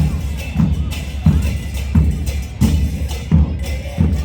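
Live carnival drumming: a bass drum beat about one and a half strikes a second, each hit with a bright cymbal-like crash, keeping a steady rhythm.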